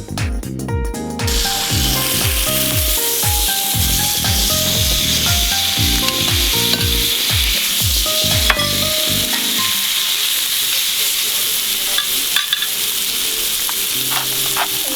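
Steak frying in a hot pan, a loud steady sizzle that starts about a second in. It plays over background music with a steady beat, and the beat stops about two-thirds of the way through.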